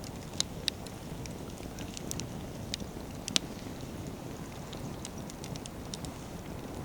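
Wood fire burning: a steady low rush of flames with frequent sharp crackles and pops of burning firewood, the loudest pops about half a second in and at about three and a half seconds.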